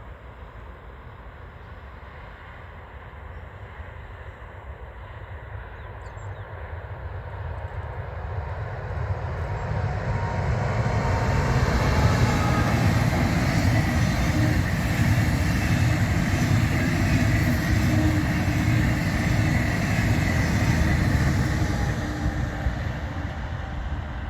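A train approaching and passing on the line: wheel-on-rail rumble and running noise build up over about ten seconds, stay loud for about ten seconds as it goes by, then begin to fade near the end.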